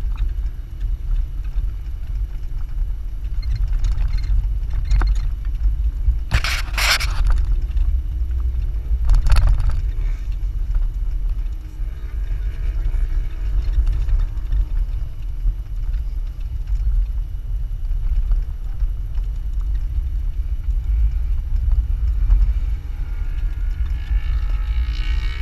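Low, steady rumble of a Jeep driving over sand dunes, heard from on board, with a couple of sharp knocks about six and a half and nine seconds in.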